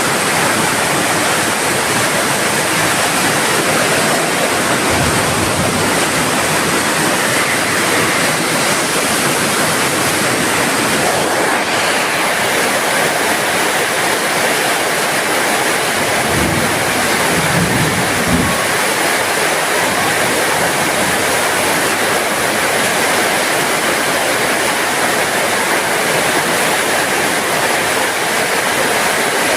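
Heavy rain falling steadily in a backyard: a dense, even hiss of drops that holds at the same level throughout.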